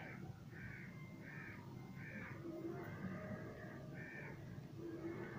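Birds calling: a string of short repeated calls, about one every half second to a second.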